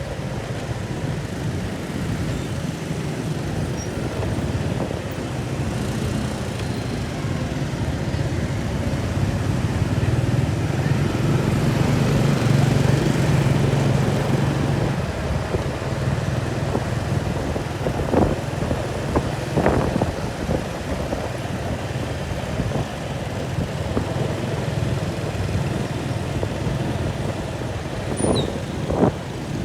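An engine running steadily with a low hum under a rushing noise. A few brief sharper sounds come about two-thirds of the way through and again near the end.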